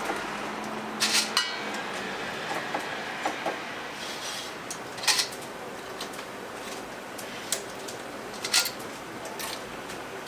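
Kitchen clatter: sharp metallic clinks and knocks of utensils and dishes over a steady background hiss, with the loudest clatters about a second in, around five seconds in and near the end.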